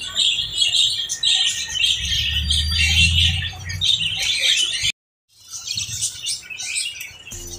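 Pet lovebirds chirping and chattering in a dense stream of shrill high calls, cut off briefly about five seconds in before resuming.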